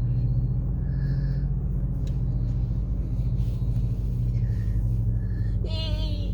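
Diesel locomotive of a MARC commuter train rumbling steadily with a constant low engine drone.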